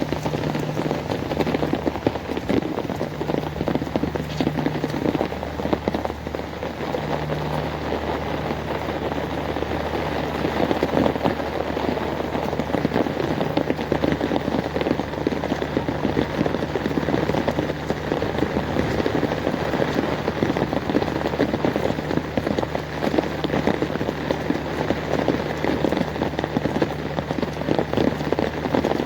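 Heavy rain falling steadily onto hard surfaces, a dense, even patter. A faint low steady hum runs underneath.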